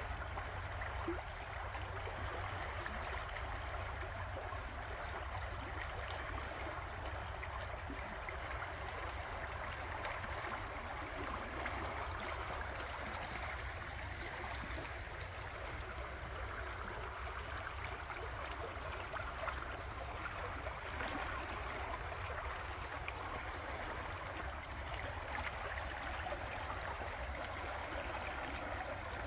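River water flowing: a steady, even rush with a low rumble underneath.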